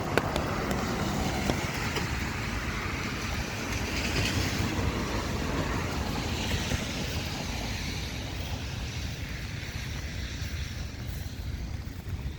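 A vehicle passing on wet pavement: tyre hiss that swells toward the middle and then fades, over a low steady rumble. A few footsteps tap near the start.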